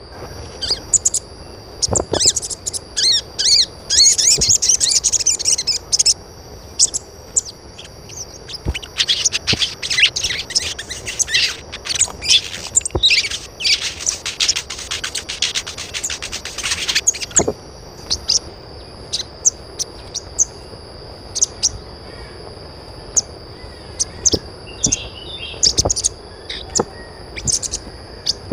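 Birds chirping in rapid, busy runs of short high calls, thinning out in the second half, over a steady high-pitched hum.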